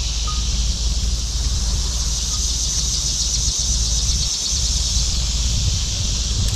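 Steady outdoor background noise: a low rumble like wind on the microphone under an even high hiss.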